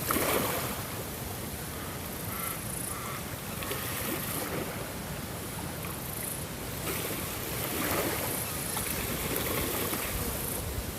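Ocean waves washing in, swelling and easing every few seconds.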